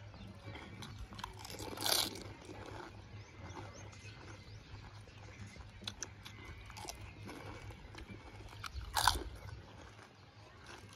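Pani puri being eaten: crisp hollow puris filled with spiced water crunched and chewed, with small crackles throughout and two louder crunches, about two seconds in and near the end.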